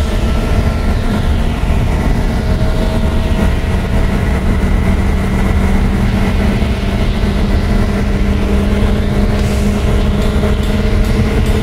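Lotus Elise engine running at high, nearly steady revs down a long straight, heard from inside the car over a dense haze of road and wind noise.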